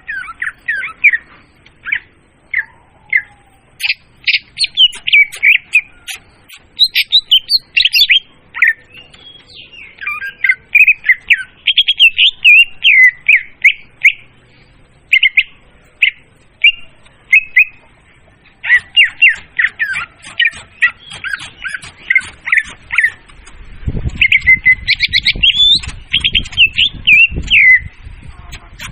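Recorded leafbird (murai daun) song used as a bird-trapping lure call: loud, fast, varied chirps and squeaky whistled phrases in bursts with short pauses. A low rumble runs under the song for a few seconds near the end.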